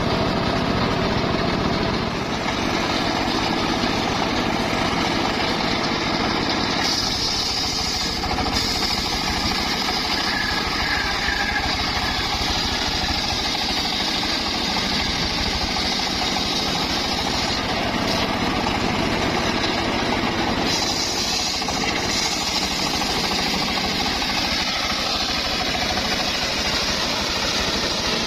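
Engine-driven circular saw running steadily while it saws timber, its sound brightening for stretches as the blade works through the wood.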